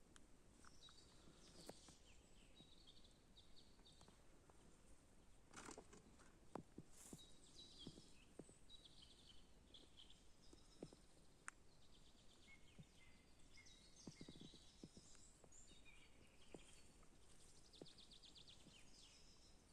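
Faint birdsong from several birds: repeated high chirps and quick trills, with a few soft knocks in between.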